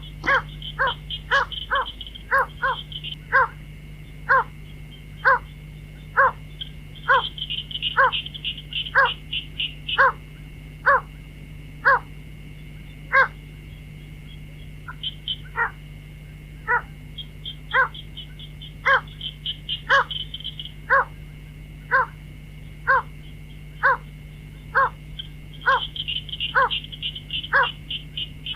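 White-breasted waterhen calling: loud, short, identical notes repeated monotonously about once a second. Underneath are a steady high buzz and bursts of rapid high trilling every several seconds.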